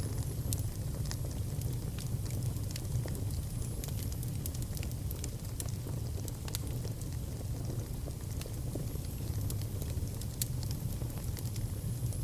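Fire burning in a fireplace, with scattered sharp crackles over a steady low rumble.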